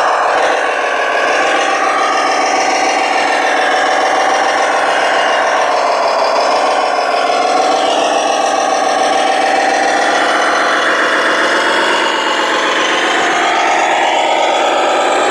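Radio-controlled model truck running: a steady, rasping mechanical whine that wavers up and down in pitch.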